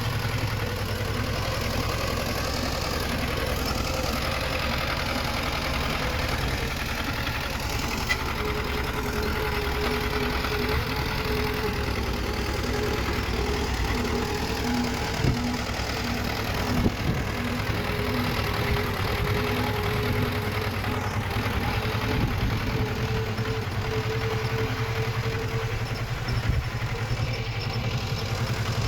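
Diesel engine of earthmoving machinery running steadily, with a few sharp metallic knocks about halfway through and near the end.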